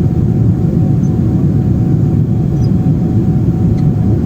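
Steady cabin roar of a Boeing 777-300 airliner on approach, heard from inside the cabin: an even, low engine and airflow rumble with a faint steady hum.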